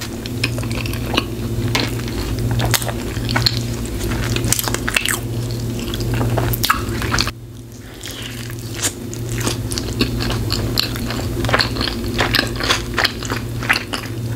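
Close-miked mouth sounds of a person biting into and chewing a cheeseburger, with many quick wet clicks and squishes. There is a brief lull about seven seconds in, then another big bite. A steady low hum sits underneath.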